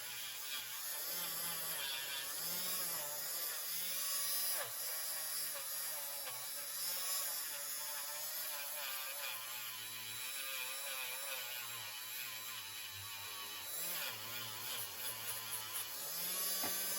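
Handheld rotary tool running with a polishing wheel on a knife blade, its whine wavering as it loads against the steel, with background music underneath.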